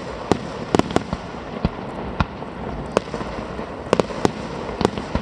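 Fireworks display: a steady crackling rumble punctuated by a rapid, irregular series of sharp bangs, roughly two or three a second.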